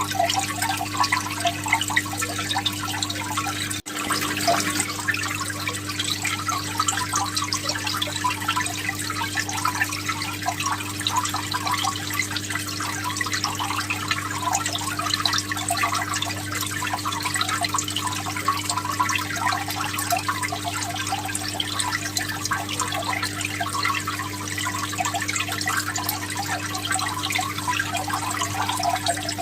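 Aquarium water bubbling and trickling steadily over a constant low hum, with a brief dropout about four seconds in.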